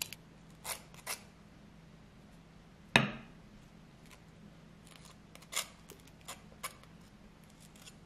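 Table knife scraping butter across a slice of crisp toasted bread in short strokes, with one sharp knock about three seconds in.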